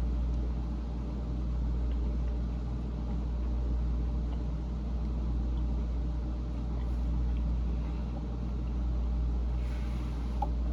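Steady low background hum, even throughout.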